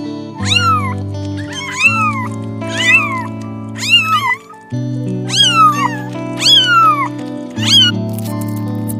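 A domestic cat meowing repeatedly, about seven meows roughly a second apart, each rising then falling in pitch, over steady background music.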